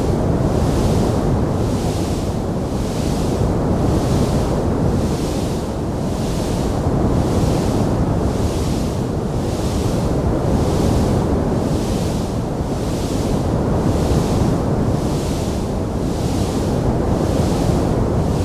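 Wood fire burning in a fireplace: a steady low rushing roar with a hiss on top that swells and fades about once a second, with no distinct sharp crackles.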